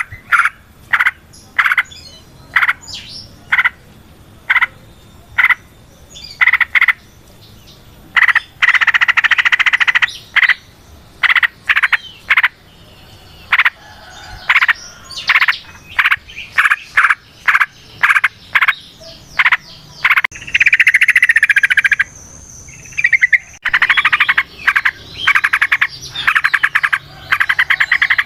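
Yellow-vented bulbul (trucukan) calling: a string of short, sharp chirps about one or two a second, breaking three times into fast rattling runs of notes, the long run (ropel) the bird is kept for.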